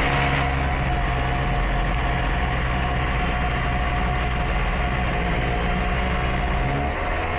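Electric drill running steadily under load, boring the fixing hole with the correct-size drill bit, and easing off near the end.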